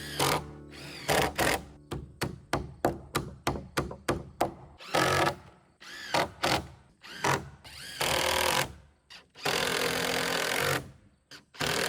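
A quick run of sharp strikes, about three a second, then a power drill running in several bursts, each up to about a second long, while fastening deck framing lumber.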